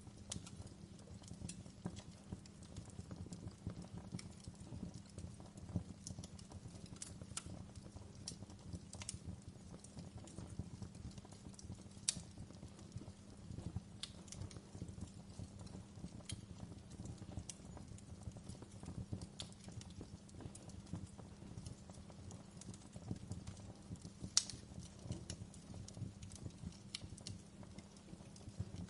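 Wood fire crackling in a fireplace: a steady low rumble of burning with frequent small crackles, and two louder pops, about twelve and about twenty-four seconds in.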